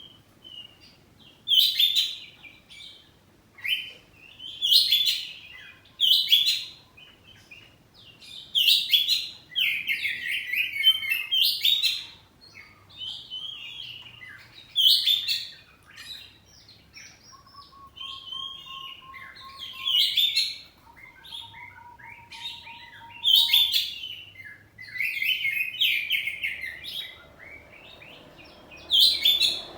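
Oriental magpie-robin (kacer poci) singing loudly in short, varied phrases that come every second or two. A faint, steady whistled note sounds twice in the second half.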